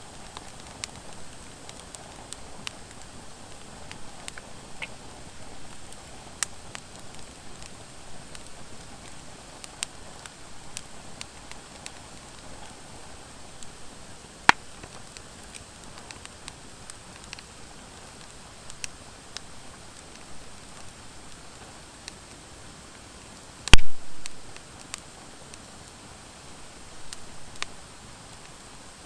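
Driftwood and dry hardwood logs burning in a fire pit: a soft steady hiss with scattered small crackles. One loud sharp pop comes a few seconds before the end.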